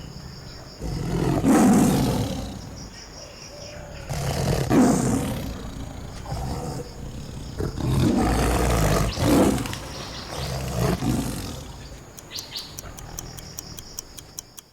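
Tiger roaring and growling, several loud, drawn-out roars one after another. Near the end a clock starts ticking quickly and evenly.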